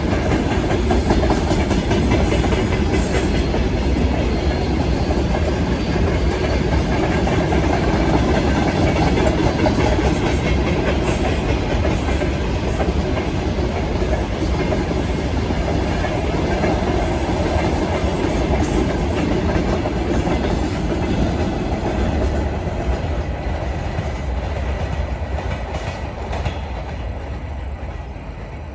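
Train wagons rolling past with the clickety-clack of wheels over rail joints and a steady heavy rumble, fading away over the last few seconds.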